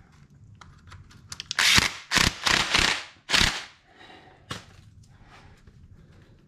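Hand tools working on the power valve's small metal parts: a few light clicks, then a run of four or five short, sharp rattling strokes about a second and a half in, and one more click near the middle.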